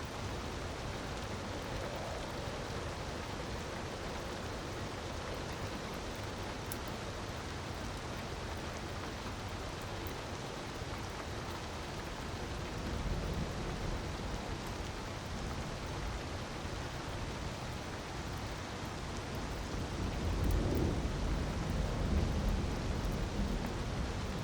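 Steady rush of falling water, an even hiss throughout, with a low rumble swelling about halfway through and a longer one near the end. A few faint crackles come through above it.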